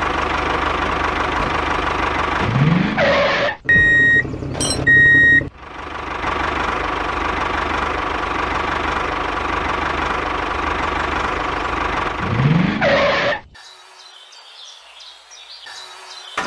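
Tractor engine sound running steadily, with a brief rising whine twice and two short horn beeps about four and five seconds in. The engine sound cuts off suddenly about thirteen seconds in, leaving only faint, scattered light sounds.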